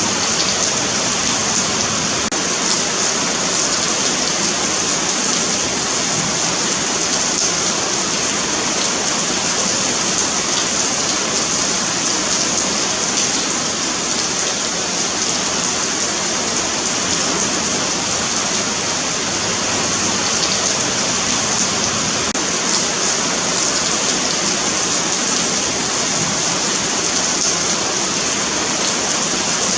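Steady rain falling on a paved sidewalk, a continuous hiss of drops with faint scattered pattering.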